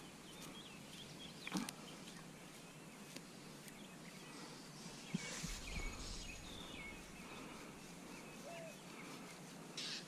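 Faint outdoor ambience with small birds chirping intermittently in the distance, a couple of soft clicks, and a brief rustle about five seconds in.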